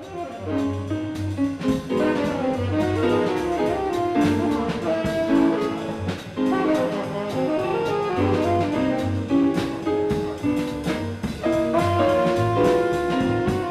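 Jazz band playing, with horns carrying the melody over a rhythm section and drums.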